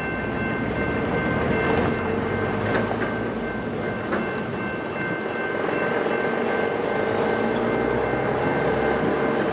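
Approaching CSX freight train led by GE diesel locomotives: a steady rumble with thin, steady high-pitched tones over it, and a faint tone slowly rising in pitch near the end.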